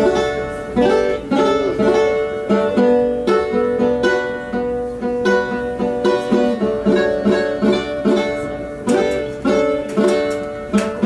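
A plucked string instrument playing the instrumental intro to a song, its notes picked in a steady, regular rhythm.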